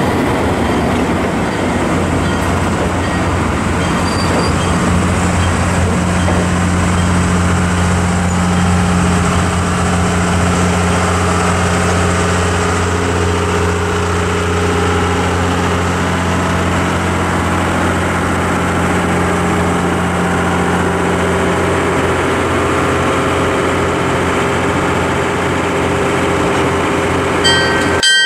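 Passenger coaches rolling slowly past on jointed track: a steady wheel-and-rail rumble with a low hum underneath. Near the end the sound cuts off abruptly to a different sound with several steady tones.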